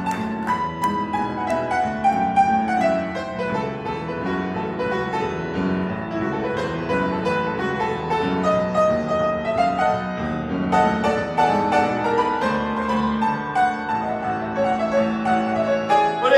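Instrumental break in an upbeat rock and roll song, with piano carrying the lead over the band.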